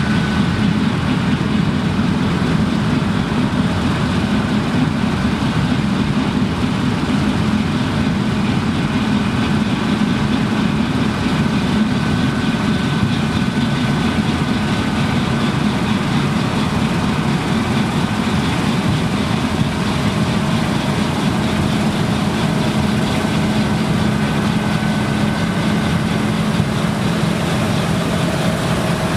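Claas Lexion combine harvester running steadily at working speed while harvesting rye: a heavy diesel engine with the machine's steady mechanical whine.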